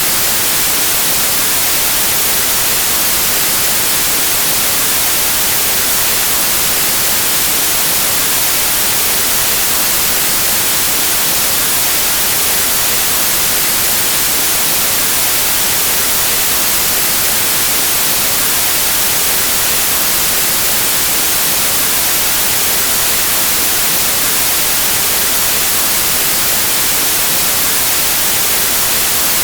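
Steady white noise: an even, unchanging hiss of static, strongest in the high frequencies.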